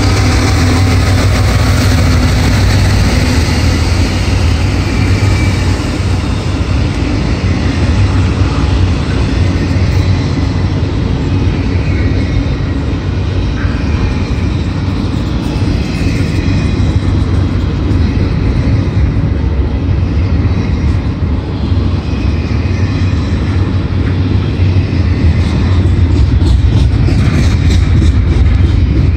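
Double-stack intermodal container cars of a freight train rolling past close by, a steady loud rumble of steel wheels on the rails.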